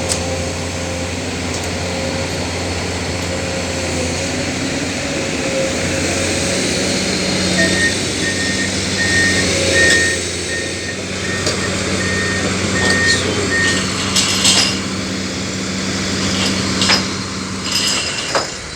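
Heavy-equipment diesel engine running steadily, with a backup alarm beeping about twice a second for several seconds midway, and a few sharp metal clanks in the second half.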